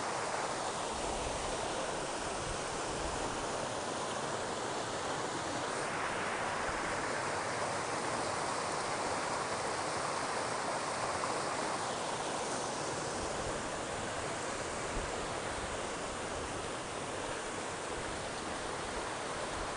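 A mountain valley stream rushing steadily, with a tone that shifts slowly every few seconds.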